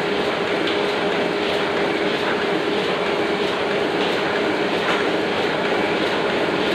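Oliver printing press running steadily at its normal working speed: a dense mechanical clatter with a constant hum and faint, regularly spaced knocks.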